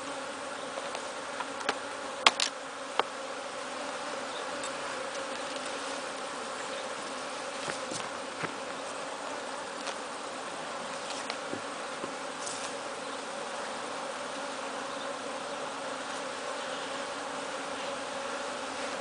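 A honeybee colony buzzing steadily from an open hive during an inspection. A few sharp clicks come about two to three seconds in.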